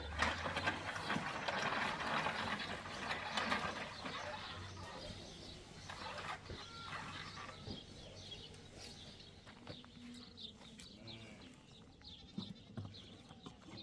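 A flock of sheep and goats bleating, over a dense rustling noise that fades after the first five seconds or so.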